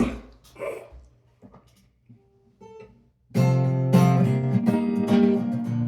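A short throat noise at the start, then near quiet with a few faint touches, then an acoustic guitar is strummed from about three seconds in, chords ringing steadily.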